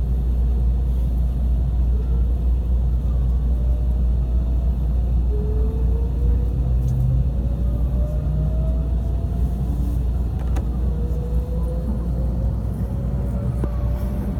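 Inside the cabin of a Tobu Spacia limited express train running: a steady low rumble, with the traction motors' whine climbing slowly in pitch as the train gathers speed.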